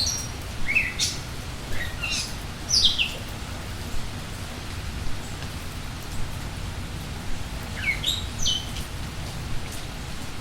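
Birds chirping in quick falling notes over steady rainfall. There is a cluster of chirps in the first few seconds and another pair of calls about eight seconds in.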